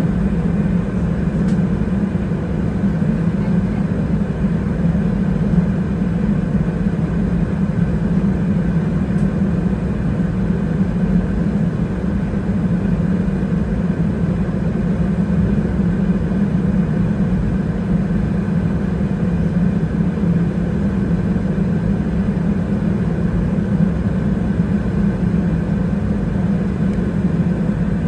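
Steady cabin noise inside an Airbus A320-212: the CFM56 jet engines running at idle with the air-conditioning hum, as the airliner taxis in after landing. A strong, even low drone with no change in pitch or level.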